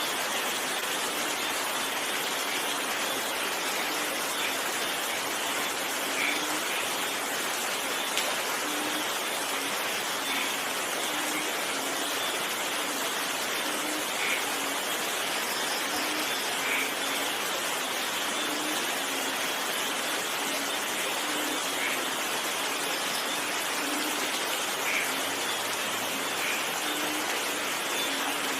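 Steady rain, with scattered louder drops landing at irregular moments.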